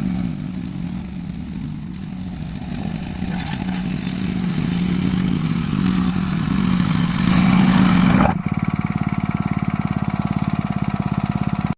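VEVOR plate compactor's 78.5cc gas engine running, with the plate vibrating. About two-thirds of the way through, the sound changes abruptly to an even, rapid pulsing.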